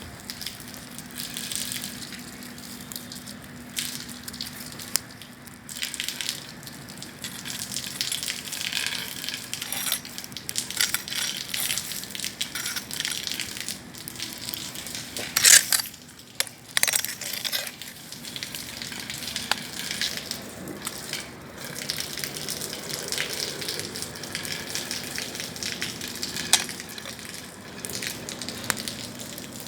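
Bonfire burning, a steady hiss full of crackles and sharp pops, with a louder pop about halfway through.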